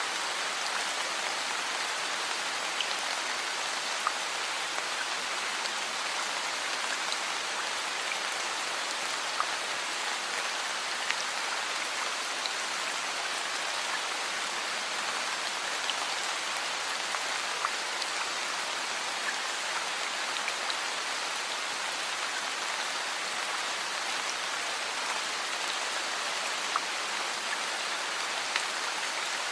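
Steady heavy rain: an even hiss, with single sharp drop taps standing out every second or two.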